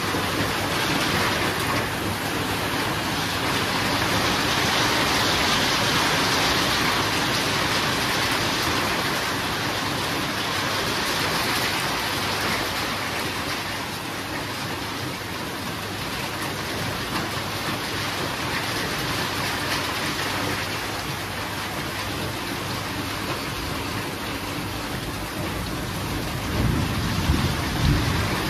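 Steady heavy rain falling with an even hiss, and a low rumble of thunder building near the end.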